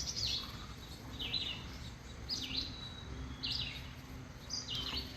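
A songbird calling outdoors: short, high, sweeping chirps repeated about once a second over a low steady background rumble.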